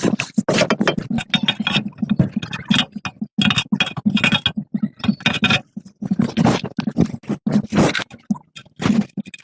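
Irregular stop-start scraping with scattered clicks and knocks, typical of hand work on a machine being repaired.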